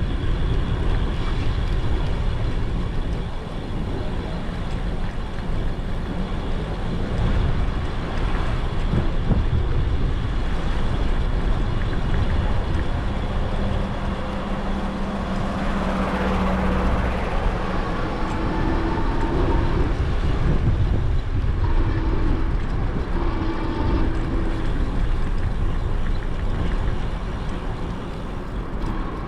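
Wind rushing over an action camera's microphone on a moving e-bike, a steady low rumble, with road traffic passing; a low hum from a passing vehicle rises briefly around the middle.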